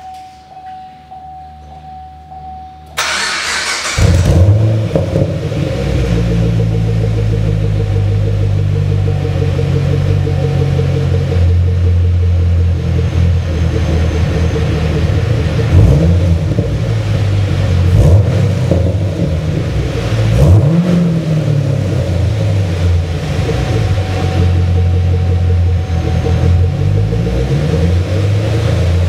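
A 2010 Chevrolet Camaro SS's 6.2-litre LS3 V8, fitted with a K&N intake and GMPP performance exhaust, is started about three seconds in, after a steady electronic chime. It settles into a loud, deep idle, and the throttle is blipped several times into short revs.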